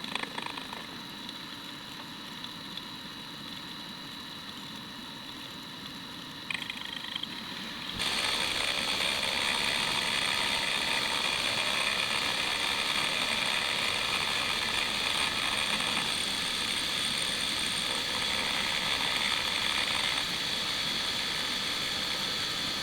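Metal lathe running with a steady, high gear whine. About eight seconds in it becomes louder and rougher and stays that way.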